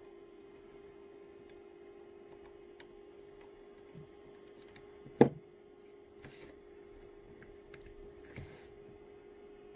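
Small clicks and taps of an Allen key and metal parts being handled while screws are taken out of a rifle's barrel assembly, with one sharp loud knock about five seconds in and a couple of brief rustles, over a steady low hum.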